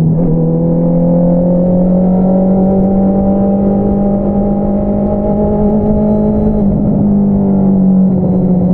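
2022 Honda CBR650R's inline-four engine running through an Akrapovič single-outlet exhaust under way, holding a steady note that climbs slowly. The note breaks briefly right at the start and again about seven seconds in.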